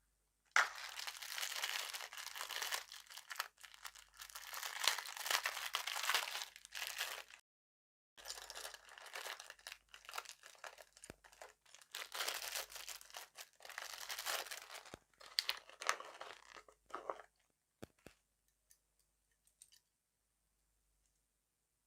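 Close-miked crunching and chewing of crunchy dessert candy, dense and crackly, in two long stretches with a short break near the middle, then a few isolated clicks near the end.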